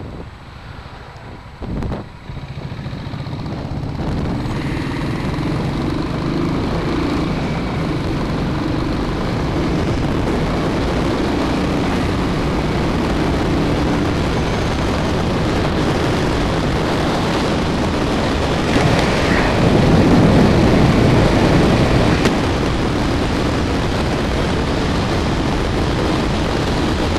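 Royal Enfield single-cylinder motorcycle engine running on the move, mixed with wind noise on the helmet-mounted microphone. The sound swells over the first few seconds and then holds steady.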